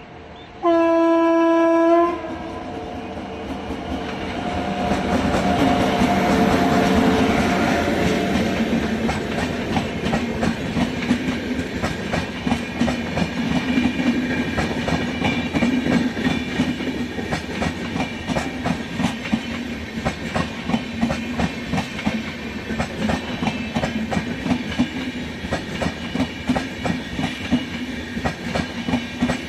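An Indian Railways locomotive sounds one horn blast of about a second and a half, just under a second in. The train then comes up and runs past, its wheels clattering steadily over the rail joints.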